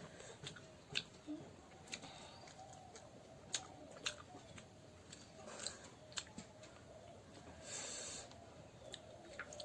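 A person eating duck meat quietly, chewing with scattered sharp clicks and smacks every second or so, and a brief hiss near the end.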